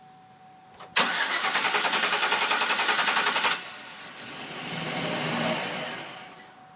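Chevrolet Silverado pickup's starter cranking the engine with a fast, even pulsing for about two and a half seconds, cutting off abruptly, followed by a softer sound that swells and fades over about two seconds. A hard start after the truck has sat, which the owner suspects comes from fuel pressure leaking off.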